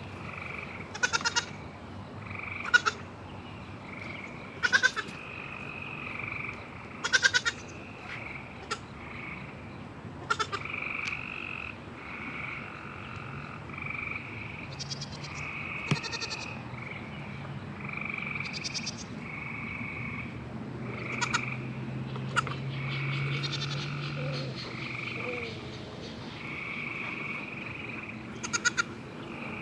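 Frogs calling in a chorus: a steady run of short repeated notes, broken by sharp trilled calls every second or two.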